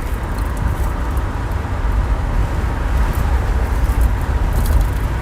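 A moving car heard from inside the cabin with the windows open: a steady low rumble of road and wind noise.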